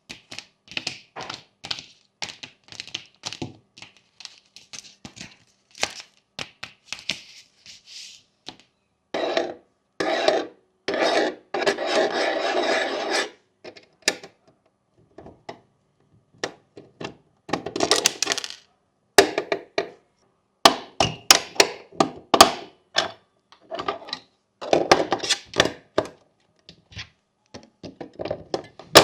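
Hands playing with plastic fidget toys on a fidget board: irregular clicks, taps and knocks, broken by rubbing, rasping stretches, the longest about twelve seconds in.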